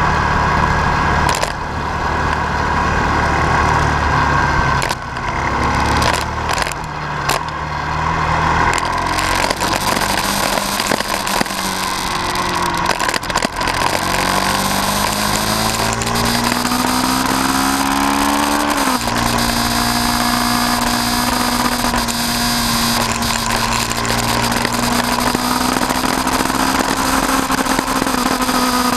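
Motor vehicle engine running steadily, then rising in pitch as it accelerates for about five seconds past the middle, dropping suddenly as at a gear change, then running on at a steady pitch.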